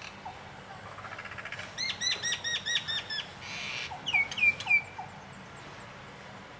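Songbird calling: a quick run of about six repeated sharp whistled notes, a short harsh rasp, then three falling notes, over a steady outdoor hiss.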